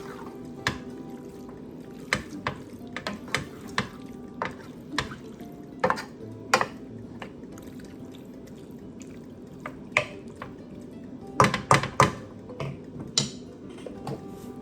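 A utensil knocking and scraping against a pan as chicken, garlic and onions are stirred, in irregular clicks with a quick cluster of knocks near the end, over a steady low background.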